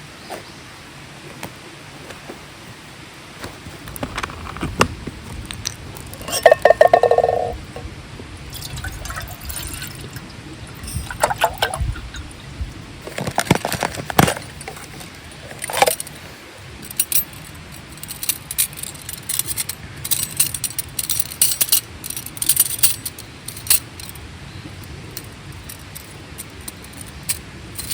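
Camp gear and tableware being handled: a string of clinks, clicks and knocks over a steady rush of flowing stream water, with one brief loud pitched squeal about seven seconds in.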